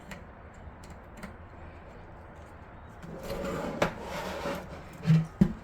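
PC cables and connectors being handled and fitted inside a computer case. A stretch of rustling with a sharp click a little under four seconds in, then two short knocks near the end.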